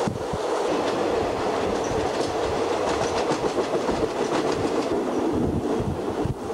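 Passenger train running along the track, heard from inside the carriage: a steady rumble with irregular clacks of the wheels passing over rail joints.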